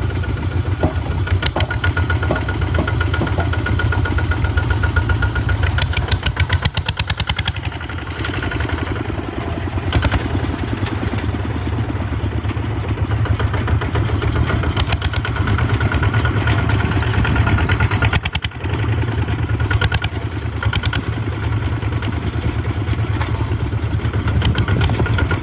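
Small farm tractor engine running steadily under way, with a fast low chugging and a rattling clatter.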